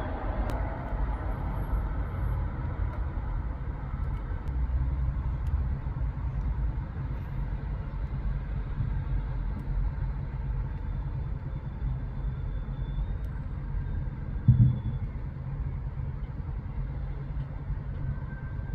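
Road traffic going by: a steady low rumble of passing vehicles, with one short, louder bump about two-thirds of the way through.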